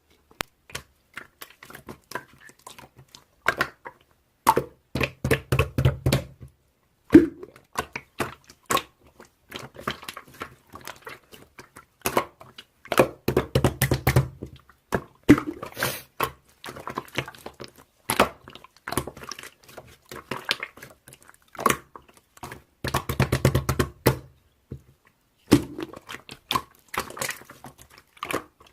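Slime being squeezed and pressed by hand, giving a run of wet clicks and pops, with three longer, deeper squishing stretches spread through it.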